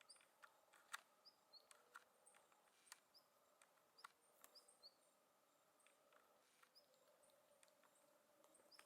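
Faint, short high chirps of small songbirds, a dozen or so, mixed with scattered light clicks and ticks, busiest in the first five seconds and then thinning out.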